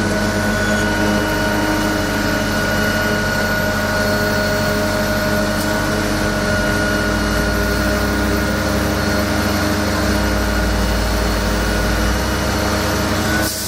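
Large engine running steadily at constant speed under a continuous mechanical drone with several steady tones, typical of heavy lifting machinery at work. It changes abruptly just before the end.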